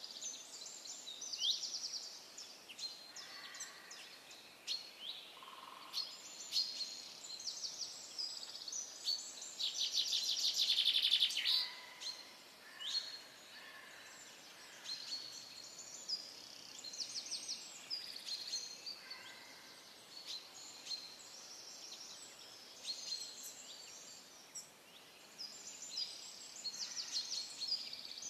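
Several small songbirds chirping and calling in a busy chorus of short high notes, with a louder rapid trill about ten seconds in.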